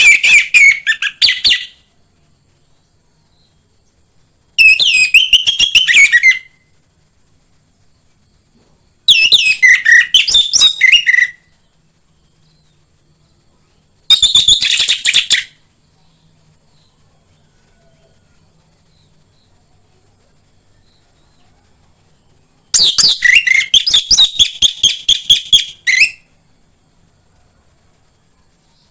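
Orange-headed thrush (anis merah) singing in five separate bursts of rapid, varied high notes, each one and a half to three and a half seconds long, with pauses of several seconds between them. A faint steady high hiss runs underneath.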